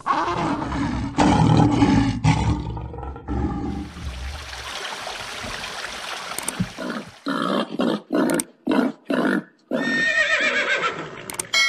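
A sequence of different animal calls, one after another: a loud, deep, rough call in the first couple of seconds, then a run of short repeated calls, and a higher pitched call near the end.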